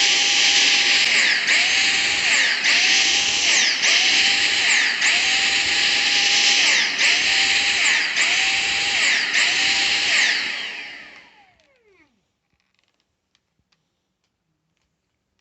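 Dyson cordless vacuum motor running with a high whine that dips and recovers about once a second: the pulsing fault. About ten seconds in it winds down with a falling whine and stops.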